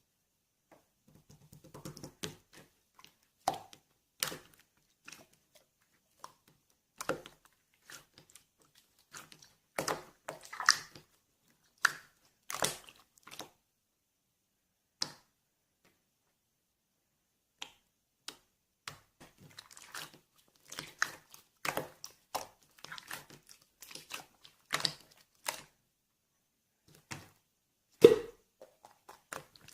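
Orange jelly-type slime being pressed and worked by hand, giving irregular wet pops, squishes and crackles with short pauses between them and one louder pop near the end.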